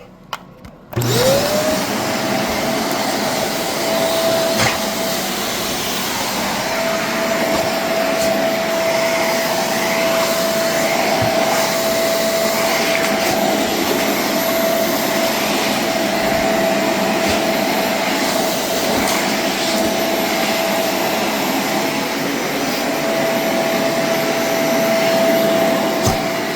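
Vacuum cleaner switched on about a second in, its motor spinning up to a steady high whine and then running continuously.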